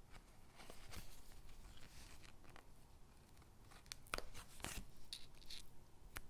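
Stickers being peeled and pressed onto paper gingerbread cutouts: faint paper rustles with a few sharp taps, two close together about four seconds in and one near the end.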